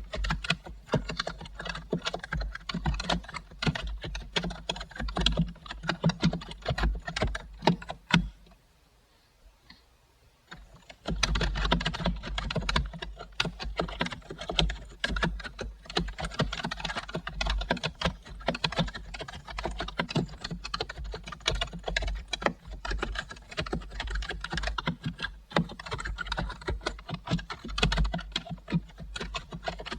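Typing on a computer keyboard: a steady stream of quick, irregular key clicks. The typing stops for about two or three seconds about a third of the way in, then resumes.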